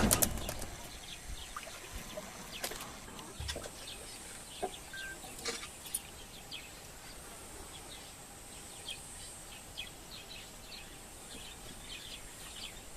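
Faint, scattered bird chirps over quiet outdoor background noise, with a few sharp clicks between about two and six seconds in.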